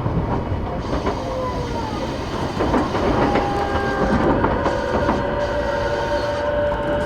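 E233 series 8000 electric commuter train running at speed, heard from inside the passenger car: a steady rolling rumble with a few rail-joint clacks, and steady whining tones that come in about three seconds in.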